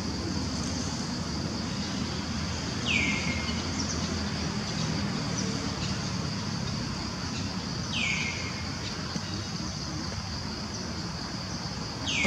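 Outdoor forest ambience: a steady high insect drone over a low rumble, with a bird's short falling whistle heard three times, about five seconds apart.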